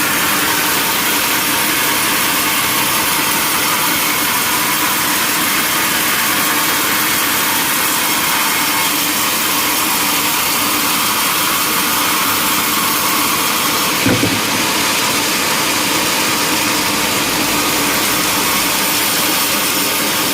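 Sawmill saw running steadily through a log, a loud even noise with one short knock about fourteen seconds in.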